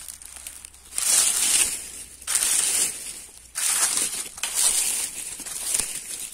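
Dry leaves and plant stalks crunching and crinkling close to the microphone in five bursts about a second apart.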